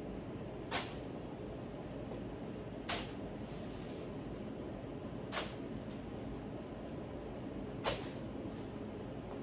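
Four sharp snaps, roughly two to two and a half seconds apart, as artificial boxwood panels are fitted and hung on a wall, over a steady low background hum.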